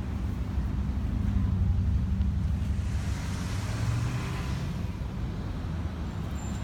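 Low, steady rumble of a motor vehicle engine, with a rushing hiss, like water or tyre noise, that swells a few seconds in and fades.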